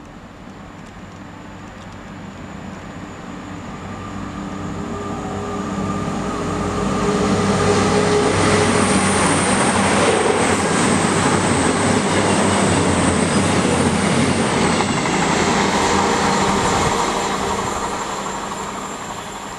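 CrossCountry Voyager (Class 220/221) diesel multiple unit passing through the station at speed. Its engine note and wheel-on-rail noise grow louder as it approaches, stay loud for about ten seconds as the train passes, then die away.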